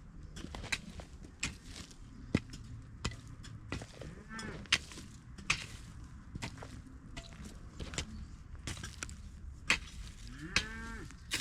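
Repeated sharp strokes of a hand hoe chopping into soil, with a cow mooing twice, once about four seconds in and again near the end.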